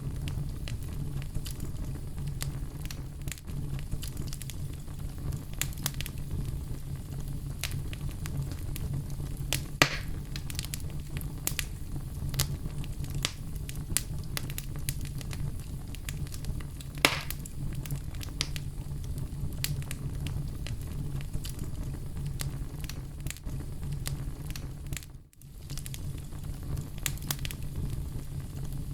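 Oak logs burning in a fireplace: a steady low rumble of flames with frequent small crackles and pops. Two louder pops come about a third of the way in and just past halfway, and the sound briefly drops out once near the end.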